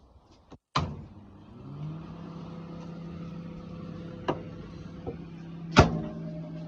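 Menumaster RCS511TS commercial microwave oven starting up: a loud click about a second in, then a hum that rises in pitch and settles into a steady drone as it runs. A few sharper clicks are heard over the drone, the loudest near the end.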